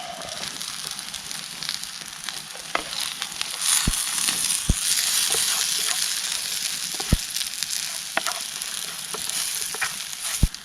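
Sausages sizzling over a wood campfire: a steady frying hiss that swells about four seconds in, with several sharp pops and crackles from the fire.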